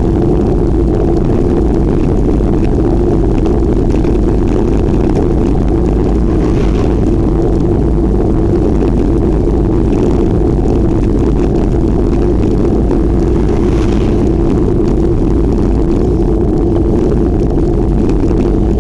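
Steady, loud rush of wind and road noise on the microphone of a camera riding along on a bicycle.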